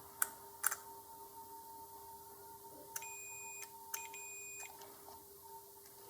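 Two sharp clicks, then two short high-pitched beeps from a multimeter's continuity tester, each about two-thirds of a second long. The beeps signal a closed circuit as relay contacts are checked.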